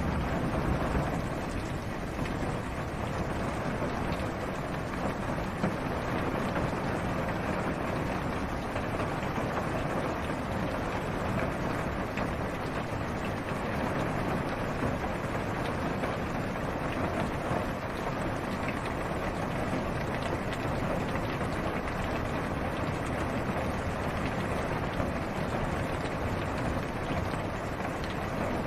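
Steady rain falling on a car's roof and windshield, heard from inside the car: an even hiss with faint scattered drop ticks.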